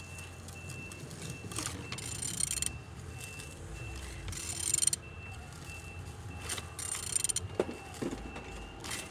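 Car engine being turned over by hand, its crankshaft rotated with a wrench, giving rasping mechanical strokes every two to three seconds; it turns freely, so the engine is not seized.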